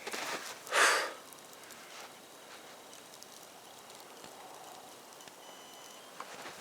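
Snow shovel scraping through snow once, a short loud rush about a second in, then only a faint steady hiss.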